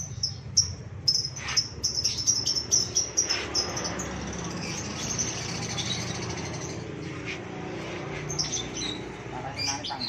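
Caged birds chirping: a quick run of many short, high chirps for the first few seconds, then steadier twittering, with more chirps near the end.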